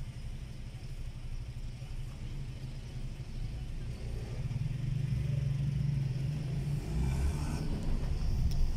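Car engine running low in city traffic, heard from inside the car, growing louder about halfway through as the car and the traffic ahead pull away.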